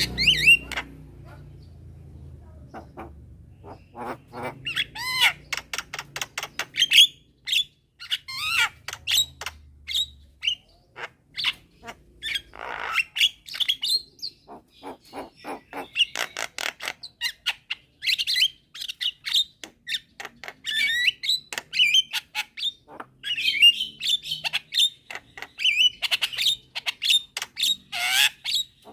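Javan mynas calling: a fast, unbroken chatter of harsh squawks, short chirps and gliding whistled notes, a young myna calling and others answering.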